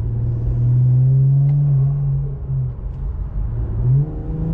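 Infiniti Q50's twin-turbo 3.0 V6 with a muffler delete, heard from inside the cabin with the windows up while accelerating. The exhaust note swells about a second in, eases off, and climbs again near the end.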